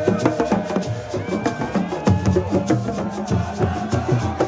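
Fast, dense drumming of many sharp strokes in a driving rhythm, with a voice singing or calling over it, typical of the sabar drumming at a Senegalese wrestling celebration.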